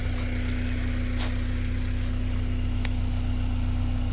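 Tractor engine running steadily at a constant speed, with a few faint knocks.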